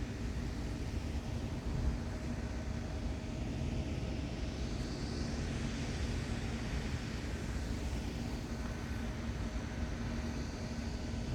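Steady low mechanical rumble with a faint constant hum running under it, unchanging throughout.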